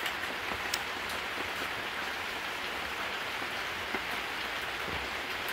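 Steady rain falling on a tent's fabric and awning, an even patter with a few sharper ticks.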